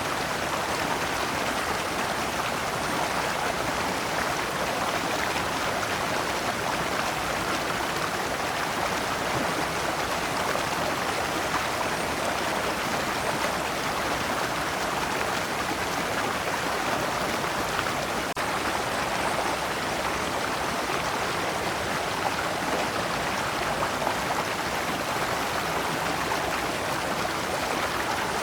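Shallow stream running over rocks in small cascades: a steady, even rush of water.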